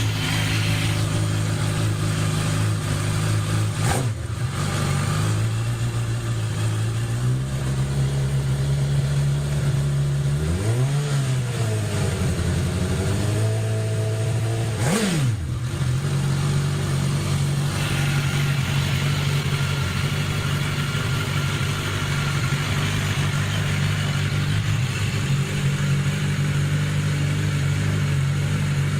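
Suzuki GSX-S1000's inline-four engine idling steadily through its exhaust, with two short throttle blips around the middle, the second sharper than the first.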